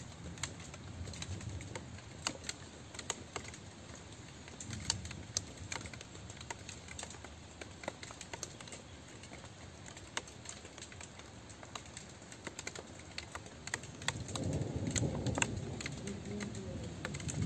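Rain falling, with many separate drops tapping sharply close by over a steady hiss. About three-quarters of the way through, a low rumble swells in and stays.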